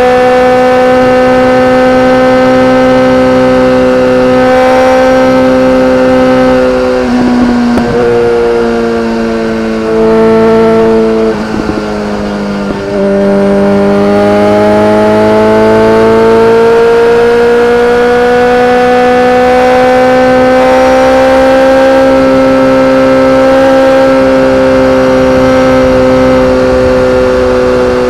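BMW K1300R's inline-four engine through an Akrapovic exhaust, running at high, steady revs. About a third of the way in, the engine note drops in steps and briefly goes quieter as the throttle comes off. It then climbs slowly back up to a steady note.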